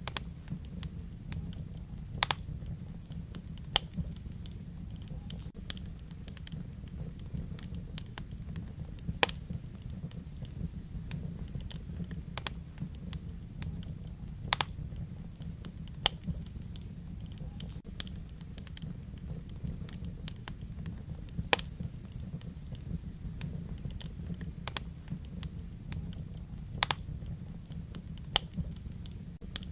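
Wood fire burning in a fireplace: a steady low rumble of flames under sharp, irregular crackles and pops from the burning logs, with about a dozen louder snaps at uneven intervals.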